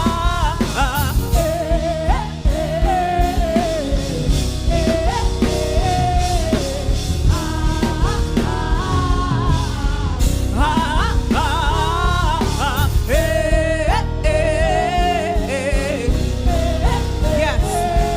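Live gospel worship music: voices singing over a full band with drums, continuous throughout.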